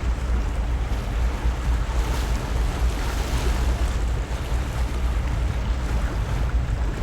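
Wind buffeting the microphone: a heavy, uneven low rumble over a steady outdoor hiss.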